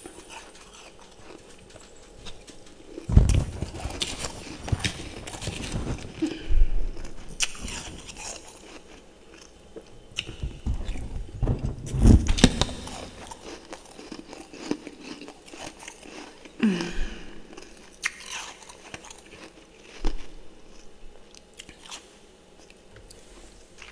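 A person biting and chewing chunks of refrozen freezer frost, crunching in irregular bursts with pauses between bites.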